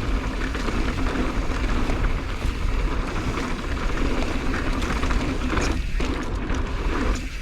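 Mountain bike descending a rough, broken-up dirt trail: tyres rolling over dirt and rock, with the bike rattling and clicking throughout. Wind rumbles on the microphone underneath.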